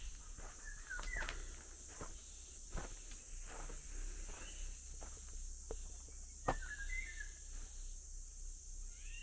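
Footsteps walking at an uneven pace, with a few short bird chirps and a steady high hiss behind them.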